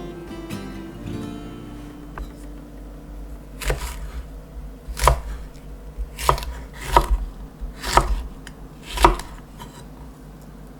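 Kitchen knife cutting vegetables on a cutting board: six separate slow cuts, about one a second, each ending in a knock on the board. Soft guitar music plays under the first few seconds.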